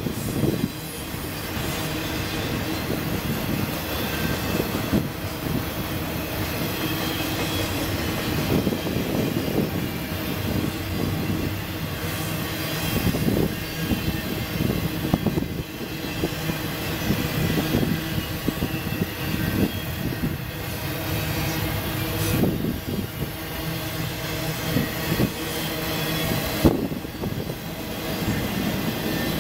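Double-stack intermodal well cars of a freight train rolling past on the rails: a steady rumble of wheels on track, with a few sharp clanks along the way.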